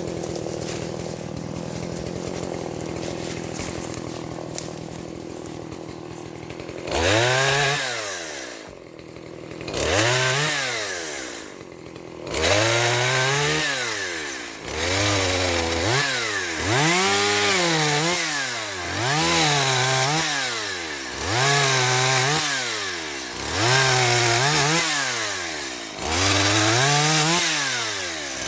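Stihl MS170 two-stroke chainsaw idling steadily. About seven seconds in it starts revving up and dropping back in repeated cycles, roughly every one and a half to two seconds.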